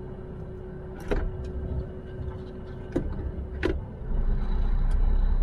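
Truck engine running, heard from inside the cab as a steady low rumble, with a few sharp clicks. About four seconds in the low rumble swells louder.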